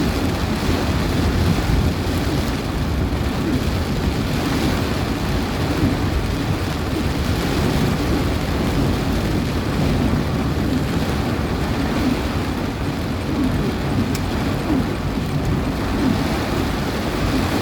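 Heavy rain in strong wind: a steady rushing hiss over a deep, constant rumble.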